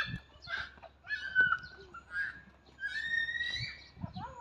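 Birds calling: a few short whistle-like calls, including one held call and one that rises in pitch toward the end.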